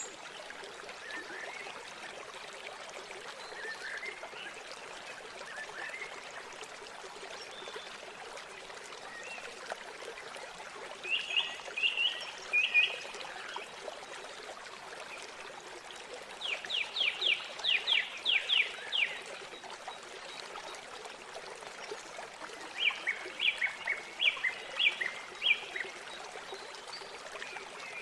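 Steady rush of flowing river water, with a bird calling over it in quick series of short repeated notes. There are three runs, roughly five to ten notes each, the longest a little past the middle.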